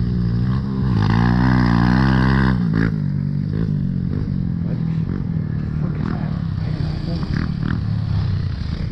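Dirt bike engine running, revved up for a couple of seconds about a second in, then dropping back and running lower and steady.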